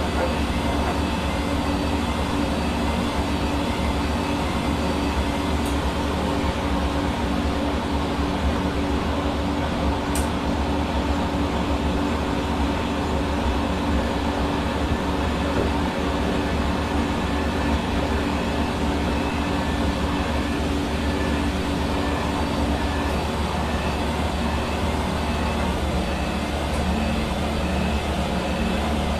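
Hair dryer running steadily: an even rushing of air with a constant motor hum.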